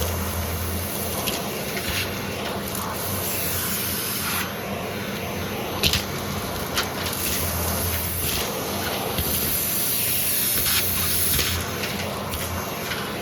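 Vacuum cleaner running steadily, with scattered sharp clicks and crackles of debris being sucked up.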